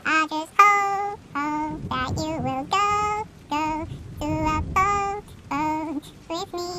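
A high-pitched voice singing a melody alone, in a run of short held notes with brief breaks between them.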